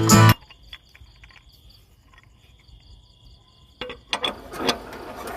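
Music cuts off just after the start, leaving faint insect chirping: a steady high trill with a pulsing one above it. Near the end come several sharp clicks and knocks, with rising noise.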